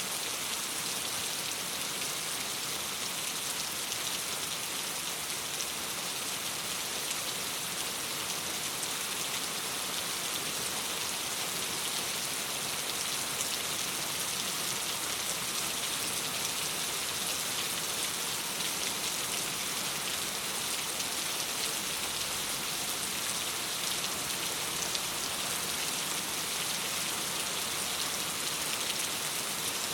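Steady rain falling against a window pane: an even hiss of rain with fine ticks of individual drops, unchanging throughout.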